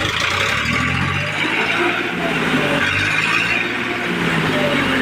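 TAFE 45 tractor's diesel engine running steadily, just after a key start.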